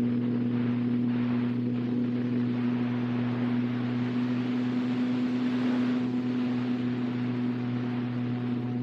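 Electric motor and propeller of a radio-controlled model airplane running at a steady speed in flight, heard from a camera on board, with air rushing over the microphone.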